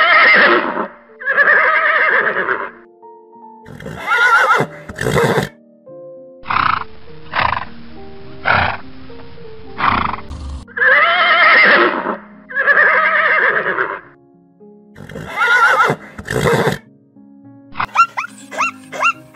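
Horse whinnying in a series of loud calls about a second long, with a wavering pitch, over background music.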